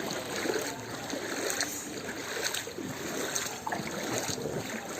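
Steady rushing water noise of heavy rain and floodwater on a waterlogged road.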